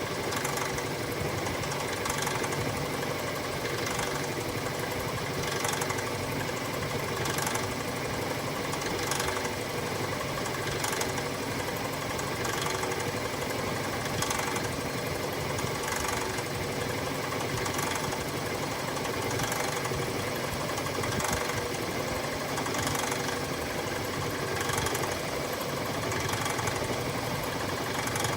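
Metalworking milling machine running steadily with a face mill cutting bar stock, a faint hissing swell of cutting noise recurring every second or two.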